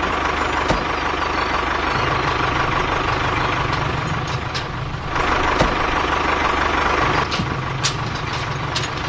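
An engine running steadily, with a fast even pulse and a few short clicks on top.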